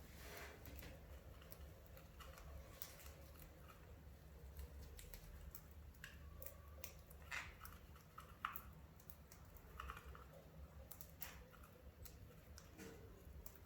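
Faint, scattered clicks and scratches with a few short higher notes, from small cage birds such as budgerigars moving about, over a low steady hum.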